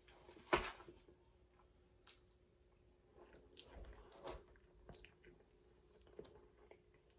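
Faint chewing of a mouthful of mac and cheese: soft scattered mouth clicks and smacks, with one sharper click about half a second in.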